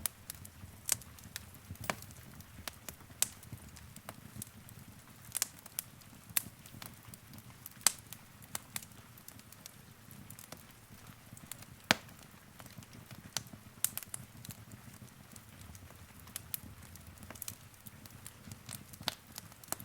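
Wood fire in a fireplace crackling: irregular sharp pops and snaps, a few a second, over a low steady rumble of the burning. The loudest snaps come about eight and twelve seconds in.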